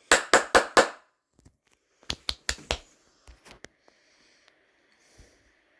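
A quick run of five sharp clicks or taps, four more about two seconds in, then a few fainter ticks.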